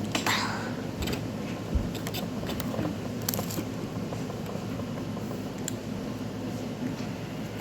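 A steady low hum with scattered small clicks, a soft thump a little under two seconds in and a short cluster of clicks a little over three seconds in.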